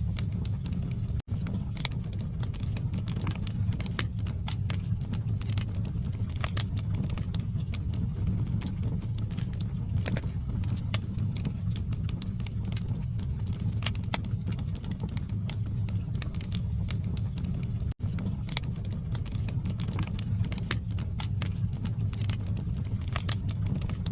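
Wood fire burning in a fireplace: a steady low rumble of the flames with frequent sharp crackles and pops from the burning logs. The sound cuts out for an instant twice, once near the start and once about two-thirds of the way through.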